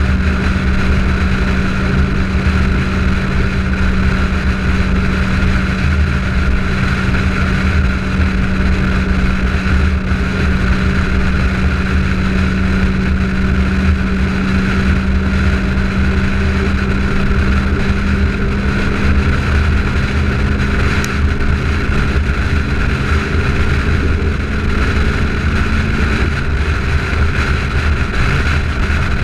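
De Tomaso Pantera's Ford 351 Cleveland V8 cruising at steady freeway speed, its engine note holding steady under road and wind noise, then shifting slightly near the end.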